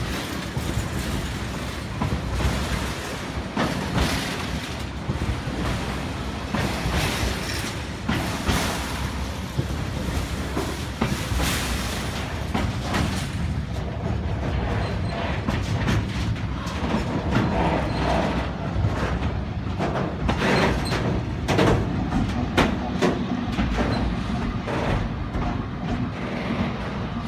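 Long freight train hauled by Class 70 diesel locomotives pulling out slowly, its wagons rolling past with a steady rumble and repeated clacks of wheels over rail joints.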